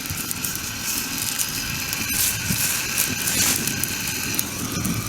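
Wood campfire burning, with dense irregular crackling over a steady mechanical rattling whir.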